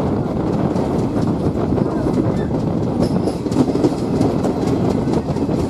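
Passenger train running, heard from on board: a steady rumble of the carriage with the wheels clicking over the rail joints.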